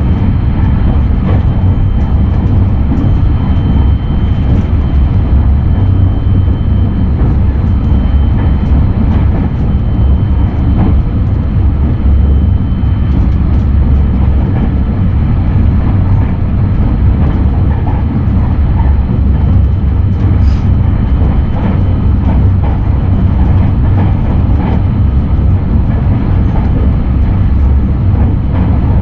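Steady low rumble of a 683 series limited-express train running at speed, heard from inside the passenger car, with scattered faint clicks from the wheels on the rails. A thin high tone sounds faintly through the first half.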